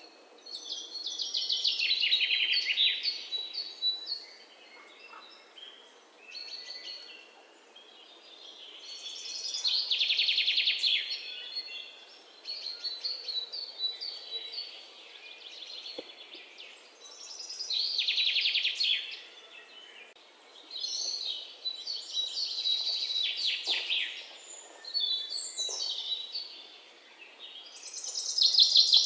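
Songbird singing: a loud, rapid trilled phrase of about two seconds, repeated roughly every eight seconds, with softer high chirps in between.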